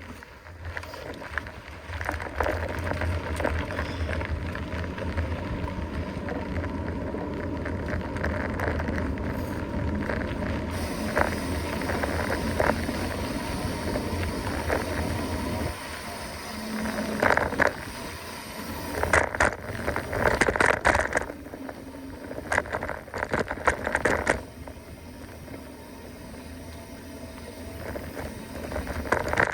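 Mountain bike being ridden on a dirt trail: a steady low rumble of wind and rolling tyres for about the first half, then the bike rattling and clattering over rough ground with clusters of sharp knocks.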